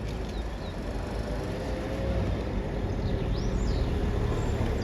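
Street ambience: a steady low rumble of vehicle traffic, with a few short high chirps about three and a half seconds in.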